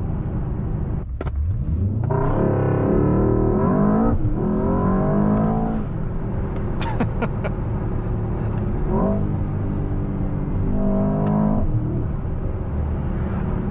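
Mercedes-AMG S63's twin-turbo 4.0-litre V8 under hard acceleration, the engine note climbing in pitch and stepping through a gearchange about 4 s in. After the lift-off about 6 s in come a few sharp pops, then a shorter rev near the end.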